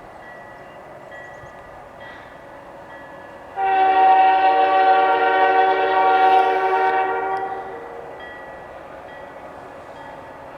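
Diesel locomotive air horn, on CN SD40-2(W) 5362, sounding one long blast of about four seconds. It is a steady multi-tone chord that starts suddenly about three and a half seconds in and fades out.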